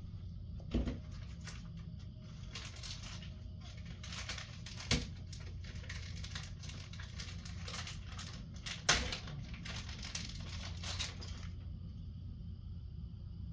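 Hands handling and fitting plastic RC-car body parts while swapping a front splitter: busy rustling and scraping, with three sharper knocks about one, five and nine seconds in, the last the loudest. The handling stops shortly before the end.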